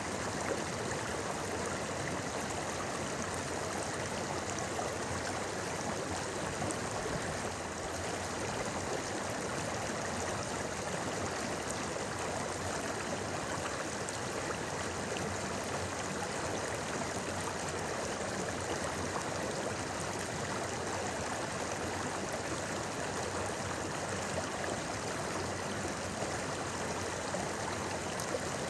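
A clear river or stream flowing over rocks: a steady, even rush of water with a light gurgle.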